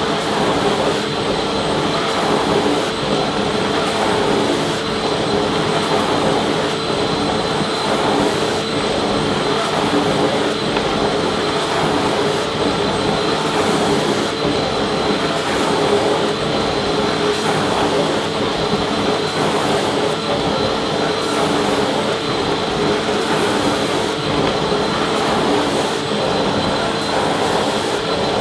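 Vacuum cleaner running steadily: a continuous rush of air over the motor's hum, with a steady whine on top and no change in pitch or level.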